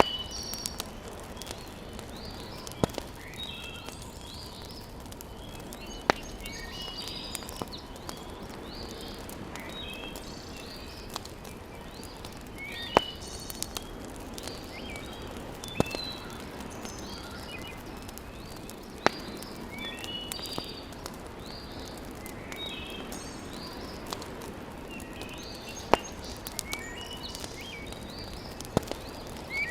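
Wood fire crackling in a fireplace, with sharp single pops every few seconds over a steady hiss. Birds chirp all through.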